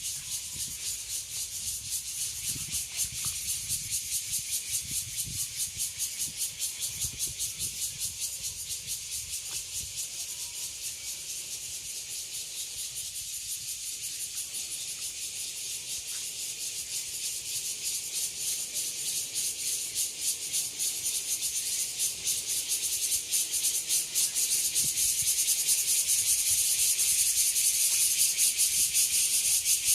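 Chorus of cicadas: a dense, high buzz of rapid pulses, swelling louder over the last third.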